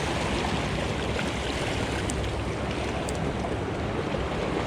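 Sea swell washing and surging through rocks, a steady rush of water, with a couple of faint ticks about two and three seconds in.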